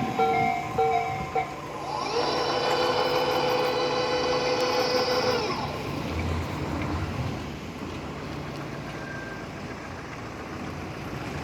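A railway level-crossing alarm ringing in quick repeating double tones stops about a second in. Then a departing Tobu 60000-series electric train's motors set up a whine that holds for about three seconds and fades, leaving a steady low hum.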